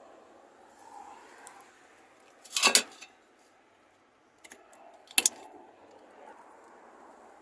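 Small metal objects clattering and jingling: a loud rattling burst about two and a half seconds in, a few light clicks, then a second short clatter about five seconds in.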